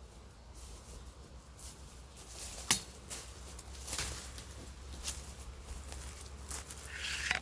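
Rustling in forest brush with scattered snaps and knocks, one sharp crack about a third of the way in standing out above the rest.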